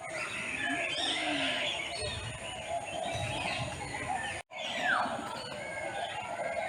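Many birds calling at once, a busy mix of chirps, whistles and sliding calls, briefly cut off about two-thirds of the way through.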